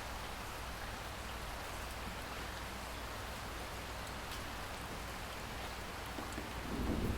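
Steady rain falling, an even hiss with scattered drop ticks. A low rumble of thunder starts to swell near the end.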